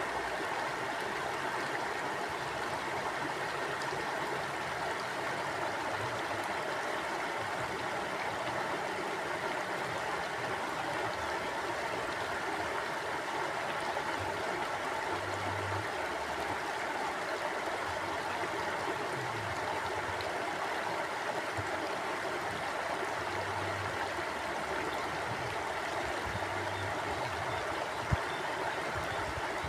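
A stream of water flowing steadily, a continuous even rush with soft low gurgles now and then. One brief click sounds near the end.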